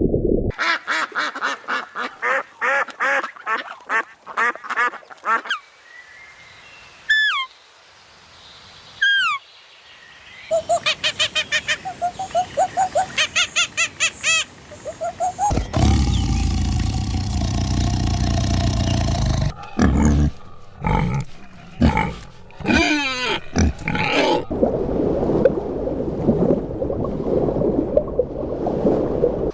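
A string of different farm animal and bird calls, one kind after another, with ducks quacking among them. Rapid repeated calls open it, a few falling whistles follow, then quick pulsed calls and a noisier stretch of calls.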